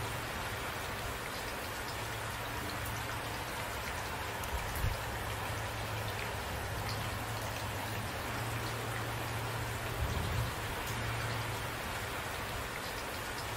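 Steady rain falling, an even hiss of drops on surfaces, with two brief louder thuds about five and ten seconds in.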